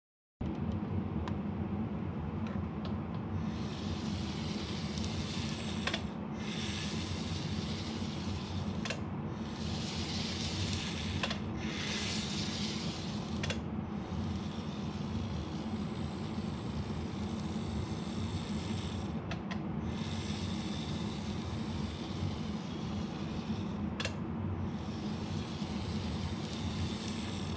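N-gauge model train, a Greenmax Keio 8000 series set with a coreless motor and flywheel, running on track. A steady low hum and rumble from the motor and wheels, with a hiss that swells and fades several times and a few sharp clicks along the way.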